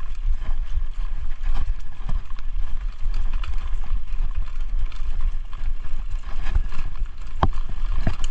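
Mountain bike riding noise on a rough dirt trail picked up by a chest-mounted action camera: a steady low rumble with scattered knocks and rattles, and two sharper knocks near the end.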